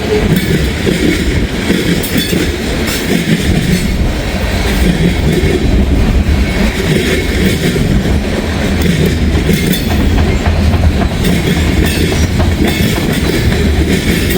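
Freight cars of a Norfolk Southern train rolling past at speed, a steady heavy rumble punctuated by wheels banging across a switch frog that looks worn down and due for replacement.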